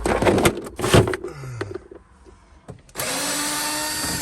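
Knocks and rattles of handling, then about three seconds in a power drill-driver runs steadily for just over a second and stops sharply, backing screws out of a camper van kitchen unit.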